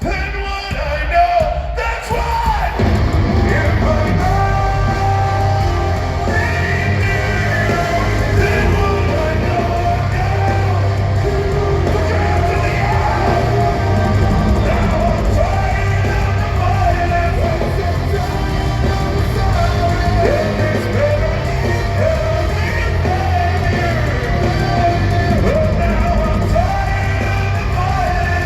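Heavy metal band playing live in a large hall, with a singer yelling and singing over the music. The full band with heavy bass and drums comes in about three seconds in.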